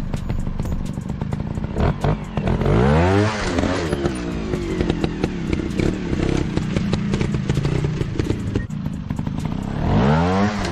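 Dirt bike engine running, revved hard twice, about three seconds in and again near the end, its pitch sweeping up and back down each time, with many sharp clicks and clatter throughout.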